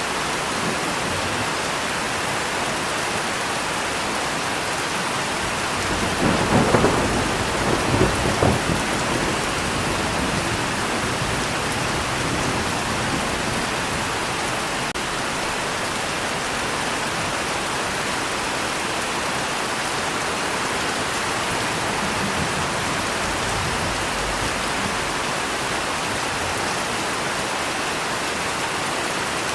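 Steady heavy rain with a thunderclap about six seconds in, rumbling for a few seconds, and a fainter roll of thunder later.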